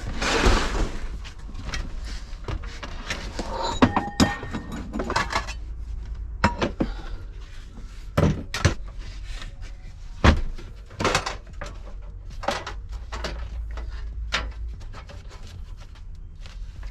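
Irregular knocks, clunks and rustling of cookware and food being handled and set out for cooking, over a steady low rumble.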